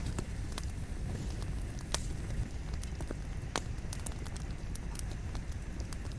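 Wood burning in a campfire: a low steady rumble of flame with irregular sharp crackles and pops from the firewood, the loudest pop about two seconds in.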